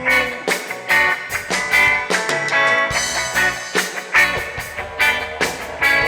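Reggae band playing live in an instrumental passage, with no singing: chords struck about twice a second over bass and drums.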